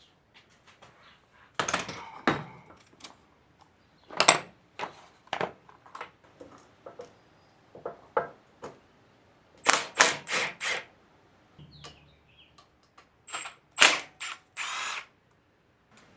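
Irregular clicks, clinks and knocks of hand tools and small metal parts being handled while parts are taken off a mower engine, with a brief low hum just before the 12-second mark and a short rasp near the end.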